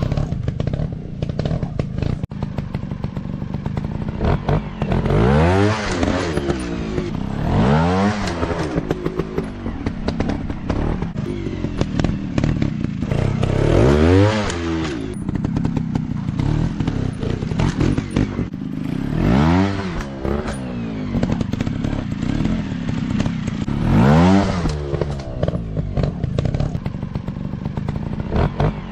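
Small dirt bike engine running with short bursts of throttle, its pitch rising and falling about five times. Clattering and knocks run throughout.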